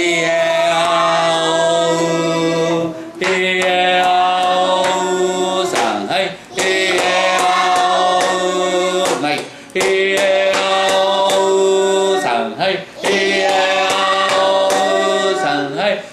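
A group of young children singing long held vowel notes together as a voice-training exercise. There are five notes of about three seconds each, with short breaks between them and a small change of pitch from note to note.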